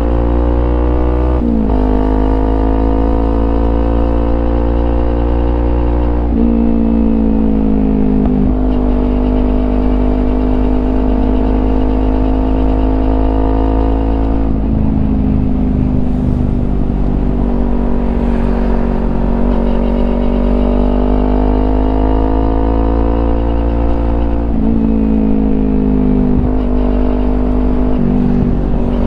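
Kawasaki Ninja 250's parallel-twin engine running through a Yoshimura aftermarket exhaust while being ridden. The engine note climbs and eases with the throttle and drops suddenly several times, as at gear changes, over a steady low rumble.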